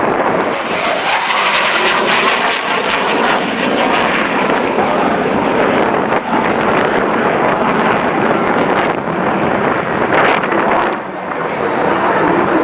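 Aircraft engine noise, a loud steady roar with a short dip in level near the end.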